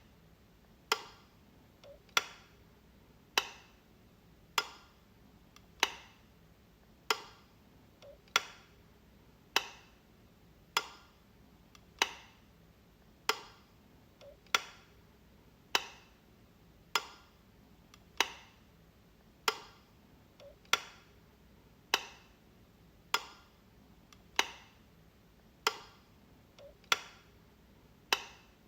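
Wall light switch clicking, one sharp click about every second and a quarter, with a fainter small click slipped in between every five clicks or so.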